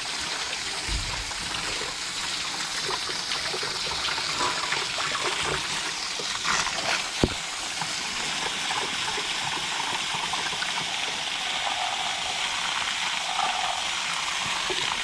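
Garden hose spray nozzle jetting water onto an air-conditioner condenser coil, a steady hiss of spray, with one sharp tap about seven seconds in.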